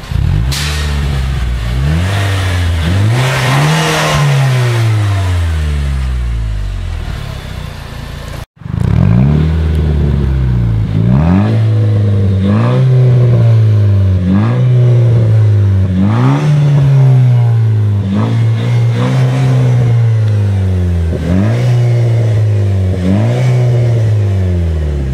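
Nissan Juke Nismo RS's 1.6-litre turbocharged four-cylinder revved through its exhaust: a few slow revs, then after a cut, a run of about eight quick blips in a row. The two takes are the engine's exhaust note before and after a straight-through custom cat-back exhaust was fitted.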